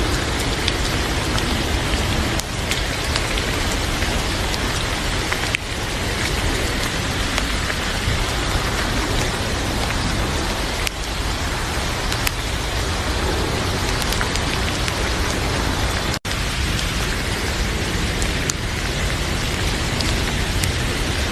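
Heavy rain falling steadily, with a few sharp clicks scattered through it. The sound drops out for an instant about sixteen seconds in.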